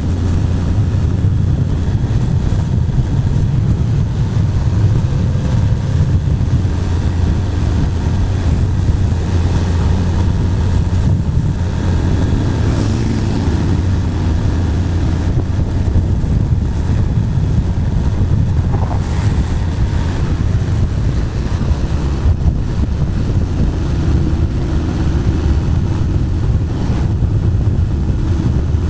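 Motorcycle riding at steady cruising speed, the Bajaj Pulsar 220's single-cylinder engine running under constant wind rush on a helmet-mounted camera's microphone.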